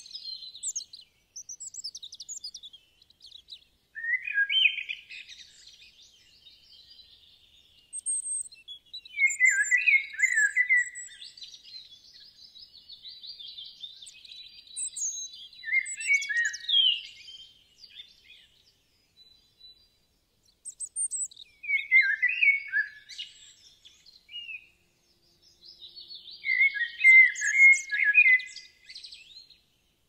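Wild birds singing and chirping, one repeating a short high phrase about every five or six seconds with fainter chirps between.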